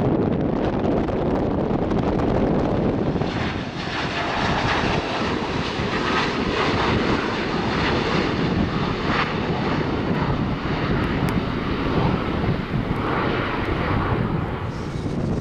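Airliner engines running steadily, a broad rushing noise as the aircraft taxis close by. The noise grows fuller and brighter about three seconds in.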